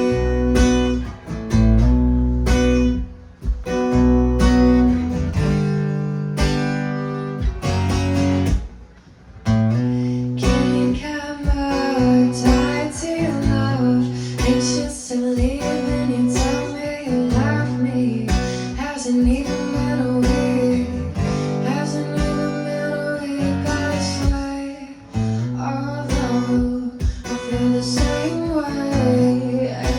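Live music led by strummed acoustic guitar. There is a brief drop just before ten seconds in, after which the music turns fuller and busier.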